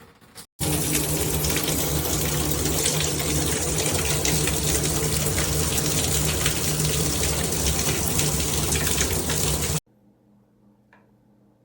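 Handheld shower head spraying water, a loud steady hiss that starts abruptly about half a second in and cuts off suddenly near the end.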